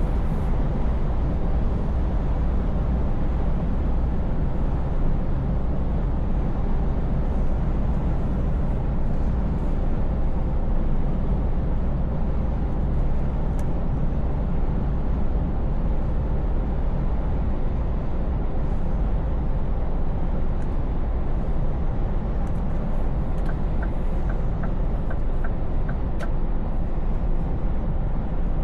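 Scania V8 truck cruising: a steady, low engine drone with road noise, unchanging in level. Near the end comes a short run of about eight light, evenly spaced ticks.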